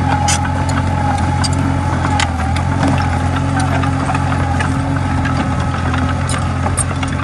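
Komatsu D20A bulldozer's diesel engine running steadily, with scattered sharp metallic clicks and clanks throughout.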